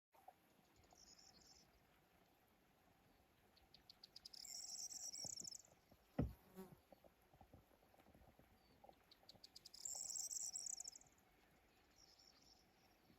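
An insect calling: a run of quick ticks that speeds up into a high buzz, twice, about six seconds apart, with shorter faint buzzes near the start and the end. A single sharp click about six seconds in.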